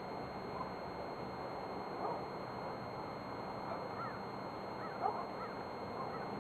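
A few short bird calls, about two seconds in and again around four and five seconds, over a steady background hiss.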